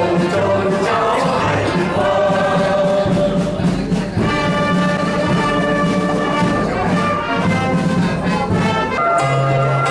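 Music: a choir singing with orchestral brass accompaniment, held notes sustained throughout.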